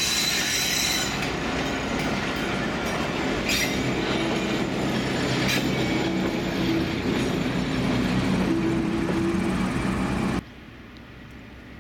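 A train running past on the rails: loud steady wheel-and-rail noise with a few brief high wheel squeals. It cuts off abruptly near the end to a much quieter background hiss.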